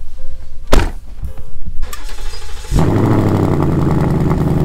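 A few clicks and a loud thump, then about two and a half seconds in the Gen 3 Coyote 5.0 V8 of a Ford Mustang GT comes on suddenly and settles into a steady idle at the exhaust.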